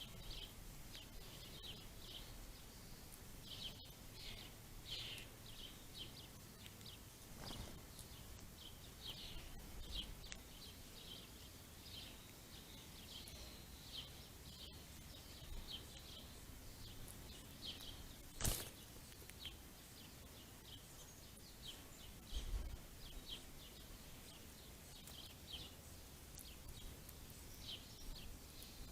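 Small songbirds chirping faintly in many short, overlapping calls. A single sharp click about 18 seconds in and a dull low thump a few seconds later stand out above the chirping.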